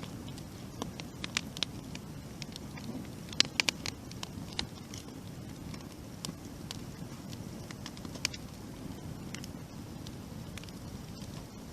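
Irregular sharp crackles and clicks over a steady low rushing sound, with a cluster of louder snaps about three and a half seconds in.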